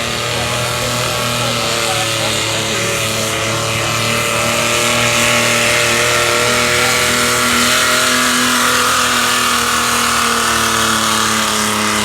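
A pulling vehicle's engine held at high revs under load, with the pitch sagging slightly midway and then climbing again.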